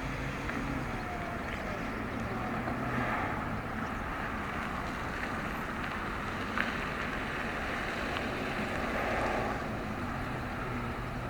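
Steady outdoor background noise: a low hum of traffic with wind on the microphone, and one short tick a little past the middle.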